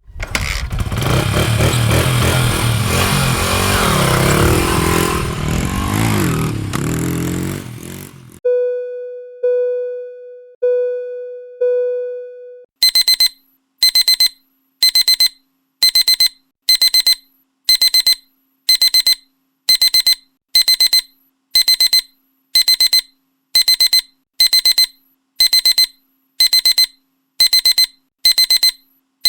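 A string of alarm sounds: about eight seconds of loud rumbling noise that cuts off suddenly, then four low electronic chime tones, each fading out, then a digital alarm clock beeping, a quick high-pitched double beep repeating about once a second.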